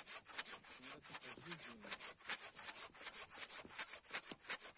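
Bow saw pulled back and forth by two people through a log about 8 cm thick: a quick, even run of rasping strokes.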